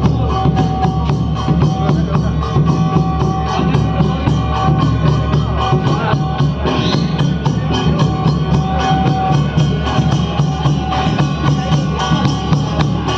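Odia Danda Nacha folk music: fast, dense drumming under a melody of held notes that stop and start.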